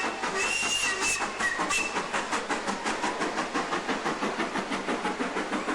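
Steam locomotive hissing steam in a quick, even pulse of about four to five beats a second.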